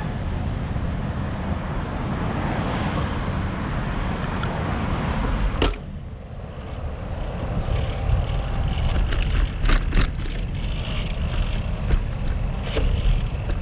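Steady low rumble of riding on a bicycle with a handlebar-mounted camera, with road traffic noise around; a sharp knock about six seconds in and a few short clicks and rattles later on.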